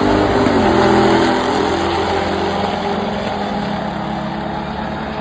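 Car engine rising briefly in pitch, then running steadily as it slowly fades away.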